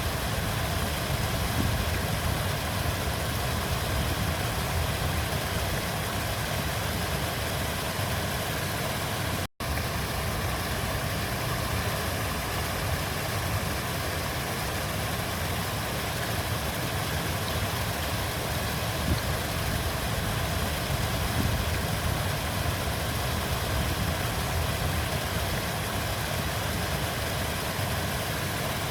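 Steady rush and rumble of a flowing river. The sound cuts out for an instant about ten seconds in.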